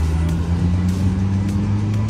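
A car engine running steadily, its pitch rising slowly, with music playing in the background.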